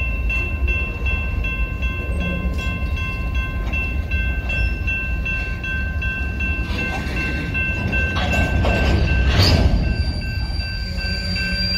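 Freight train of open-top hopper cars rolling past at close range: a heavy steady rumble of wheels on rail with steady high ringing tones over it, swelling louder about nine seconds in.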